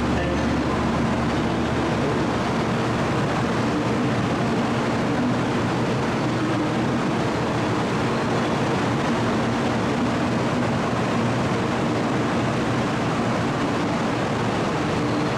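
Kyushu Shinkansen train running, a steady rushing noise that holds even throughout.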